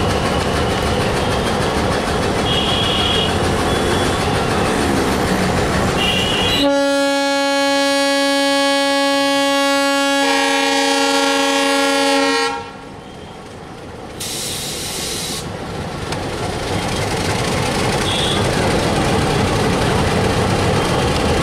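Diesel-hauled train rolling past close by, a steady rumble and clatter of wheels and carriages. About seven seconds in, a locomotive air horn sounds for about six seconds, with a second note joining partway through. After a brief dip, the rolling noise of the train returns.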